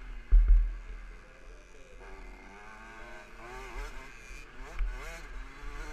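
KTM 65 SX's 65 cc two-stroke single-cylinder engine revving as the bike is ridden, its pitch rising and falling with the throttle. There are heavy low thumps about half a second in.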